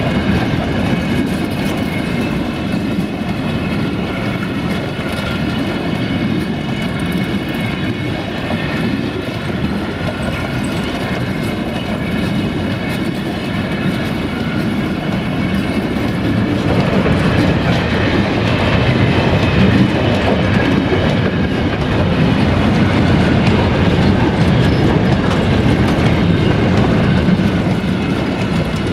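Freight train wagons rolling past close by: a steady rumble with the clickety-clack of wheels over rail joints and a faint high ringing above it, a little louder about two-thirds of the way through.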